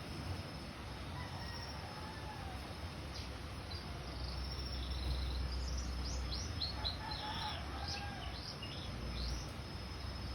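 Orange-headed thrush singing freely in short high phrases, with a run of quick downward-sliding notes in the middle, over a low steady rumble.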